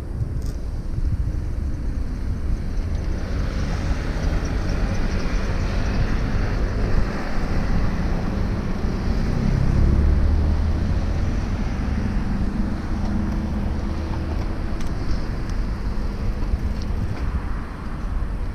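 Wind rumbling on the microphone of a moving bicycle, over city traffic noise. A broad hiss of passing road traffic swells through the middle and is loudest about ten seconds in.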